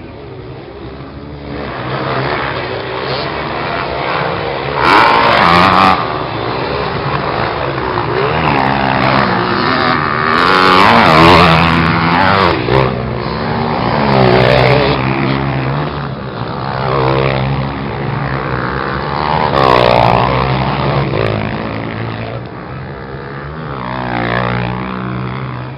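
Several motocross bikes' engines revving hard as they pass, pitch climbing and dropping repeatedly. They are loudest about five and eleven seconds in.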